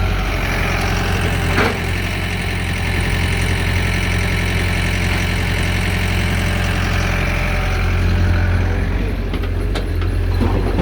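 Heavy diesel engine of earthmoving machinery running steadily with a deep hum. There is a single sharp knock about two seconds in and a few short clicks near the end.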